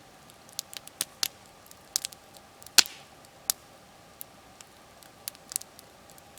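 Wood campfire crackling: scattered sharp pops and snaps at irregular intervals, the loudest a little under three seconds in.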